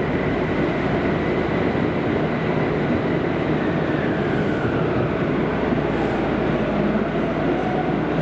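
Running noise inside a Kobe City Subway 5000-series linear-motor train car, heard steadily from the cabin, with a faint whine that falls in pitch midway as the train slows for the next station.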